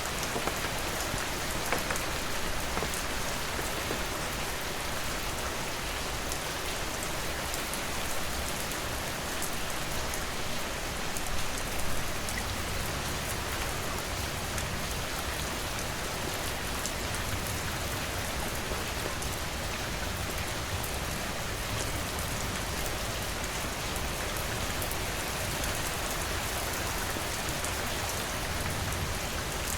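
Steady rain falling on a surface, an even hiss with scattered individual drops ticking, and a few louder drips or taps about eleven to twelve seconds in.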